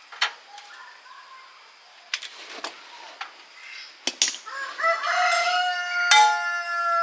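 A rooster crowing: one long crow that starts a little past the middle and is the loudest sound, preceded by a few sharp clicks or knocks.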